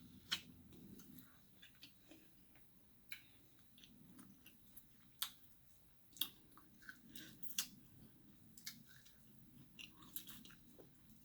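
Faint close-mic mouth sounds of someone chewing and biting food, with irregular sharp clicks and smacks.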